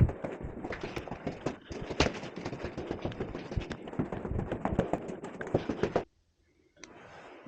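Fast, irregular run of hard knocks and clacks that cuts off abruptly about six seconds in, followed by faint hiss.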